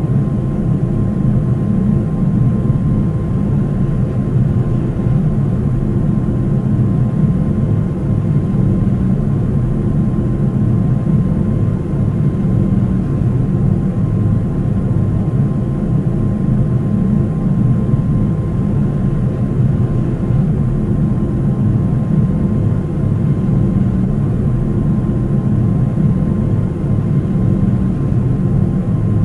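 Steady cabin drone of a Boeing 737-800 in flight: its CFM56 turbofans and the airflow past the fuselage make an even, deep noise, with a thin steady tone riding above it.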